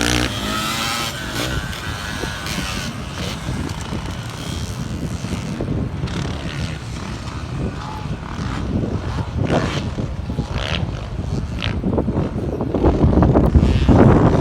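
Off-road race engines running on a dirt track, revving up and down as they go around, with one getting louder as it passes close near the end.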